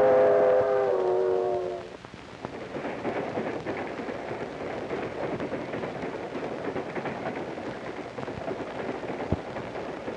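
Train horn holding a chord of several notes, cutting off about two seconds in. It is followed by a steady rumble and clatter as a freight train rolls past.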